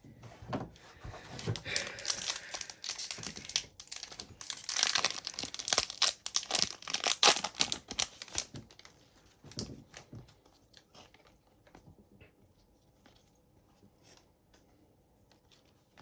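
The wrapper of an Upper Deck hockey card pack being torn open and crinkled, loudest about halfway through and stopping after about eight seconds, followed by faint ticks of the cards being handled.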